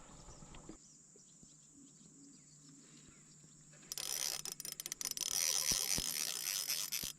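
Small spinning fishing reel being cranked: after a quiet start, a dense run of rapid clicking and whirring begins about four seconds in and stops just before the end.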